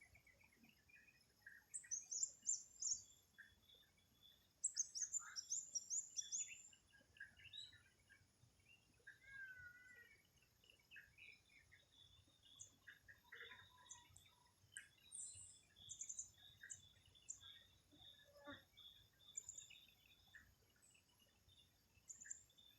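Several birds chirping and calling at once, with two fast, high, descending trills about two and five seconds in and scattered short chirps throughout. Faint, over a steady high-pitched drone.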